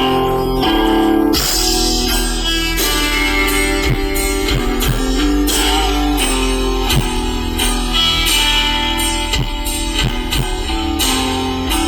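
Guitar music: a guitar strummed and picked over a steady low bass, with sharp percussive hits here and there.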